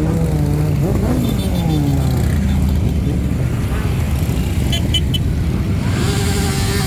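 Motorcycle engines running on the road over a steady low drone, their pitch falling and rising several times as the throttle changes.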